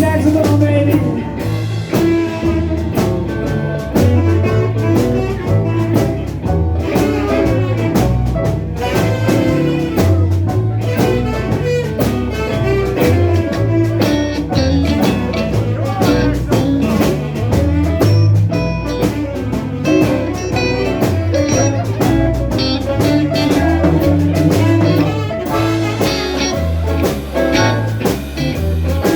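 Live blues band playing an instrumental stretch: guitar over a steady drum-kit beat and bass.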